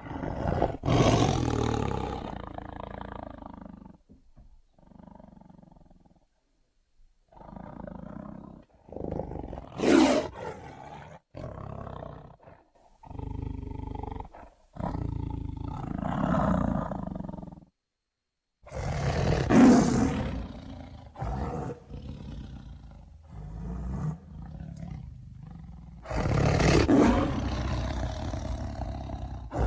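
Tiger roaring and growling: four loud, rough roars spread through, with quieter growls between them and a few short breaks of silence.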